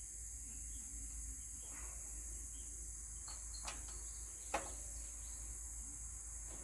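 Insects chirring steadily at a high pitch, with a couple of faint knocks about halfway through.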